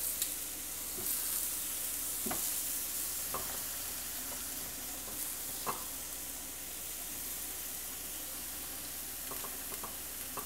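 Yam slices, bell pepper and mushroom caps sizzling on a hot non-stick electric grill plate: a steady frying hiss. A few light clicks come as pieces are set down on the plate.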